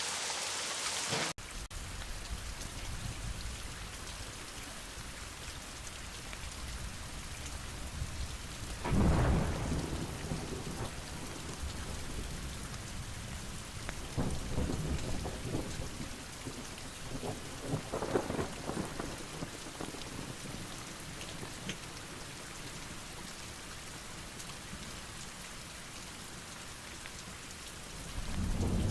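Steady heavy rain falling, with several rolls of thunder rumbling through it, the loudest about nine seconds in.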